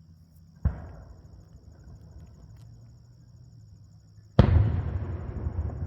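Two aerial firework shells bursting, heard from a distance. A sharp boom comes under a second in, and a louder one comes near the end. Each rolls off into a long rumbling echo.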